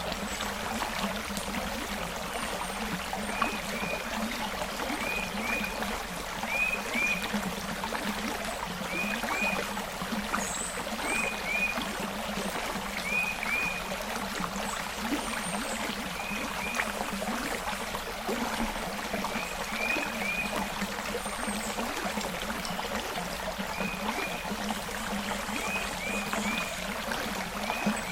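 Forest creek flowing, a steady rush and trickle of water. Through it come short high chirps every second or two, often in pairs or threes.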